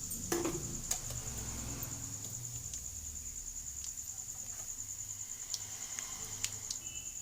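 Whole spices (cumin and kalonji seeds) with asafoetida sputtering in hot oil in a kadhai, with scattered sharp pops. A steady high-pitched pulsing whine runs beneath it.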